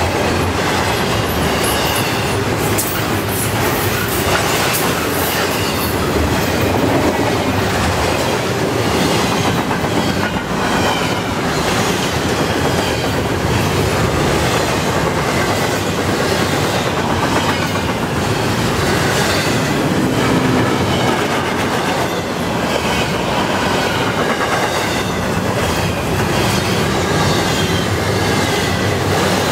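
Double-stack intermodal well cars rolling past at speed: a steady rumble of steel wheels on rail with clickety-clack over the rail joints and a faint, wavering high wheel squeal.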